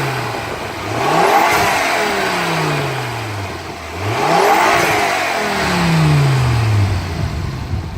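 Ford Focus RS Evolution engine being revved: the tail of a rev falls away at the start, then the engine is blipped twice, about a second in and about four seconds in. Each time the revs climb quickly and drop slowly back towards idle.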